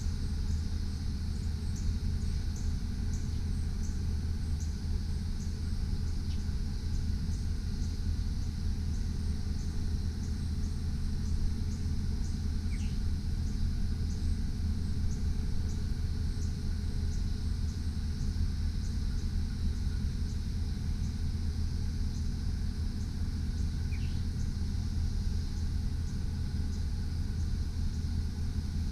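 Truck engine idling with a steady low rumble, with faint, evenly spaced high ticks about twice a second above it.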